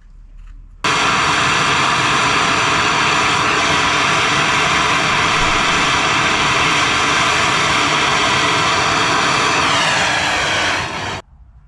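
Pressurised gas blowing through refrigerator tubing in a loud, steady hiss that starts abruptly about a second in, sags a little in pitch near the end and cuts off suddenly.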